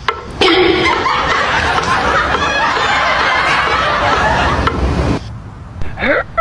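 Laughter, loud and continuous for about five seconds, then stopping; a short rising pitched sound follows near the end.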